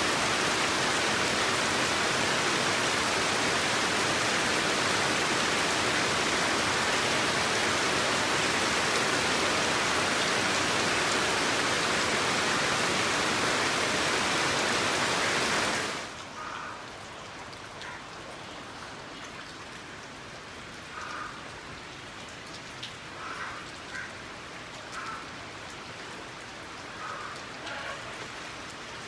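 Steady heavy rain falling. About halfway through it drops to a quieter, lighter patter with a few faint brief sounds over it.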